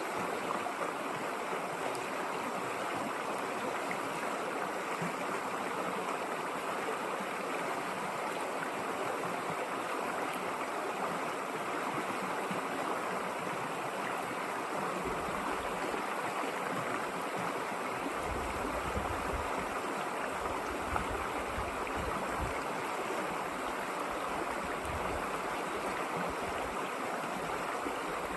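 A river flowing: a steady, even rush of water, with a low rumble coming and going in the second half.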